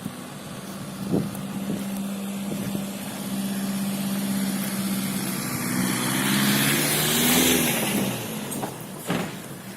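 A motor vehicle's engine running as it passes close by, growing louder to a peak about seven to eight seconds in and then fading.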